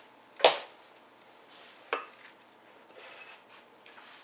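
Kitchen utensils and dishes clattering: one loud knock about half a second in, a sharper clink just before two seconds, and softer handling noises after.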